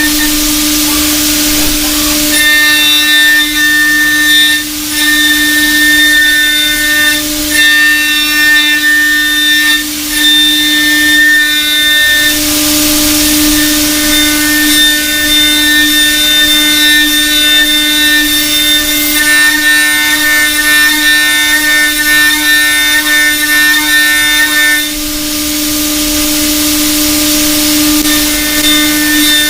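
CNC milling machine cutting metal with a high-speed ceramic end mill: a steady hum under a high-pitched cutting whine. The whine stops twice, about twelve seconds in and again near the end, with a hiss of air or spray in the breaks.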